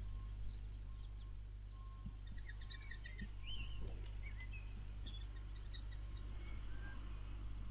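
Birds chirping, with a short rapid trill about two seconds in and another around five seconds, over a steady low hum.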